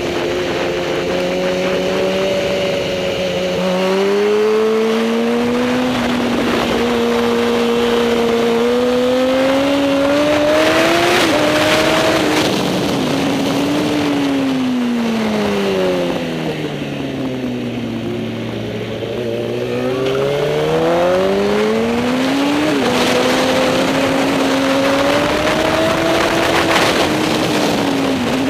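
Superbike engine running hard, its pitch climbing and stepping at gear changes. The revs fall away low a little past halfway, as for a slow corner, then climb again toward the end.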